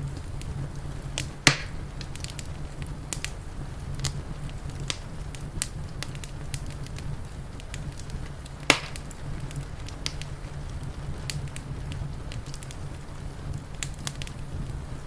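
Wood fire crackling, with scattered sharp crackles over a steady low rumble and two loud pops, about a second and a half in and again near nine seconds.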